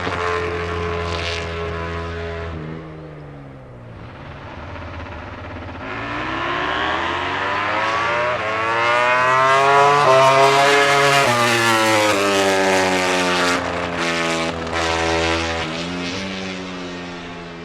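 MotoGP prototype race bike's four-cylinder engine at high revs. The note drops and fades about three seconds in, then builds to a loud peak around ten seconds in and sweeps down in pitch as the bike goes past. Quick gear shifts follow as it fades away.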